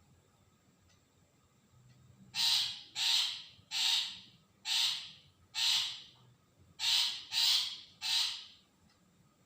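Long-tailed shrike giving a series of eight harsh, rasping calls, each about half a second long, starting about two seconds in and ending shortly before the end.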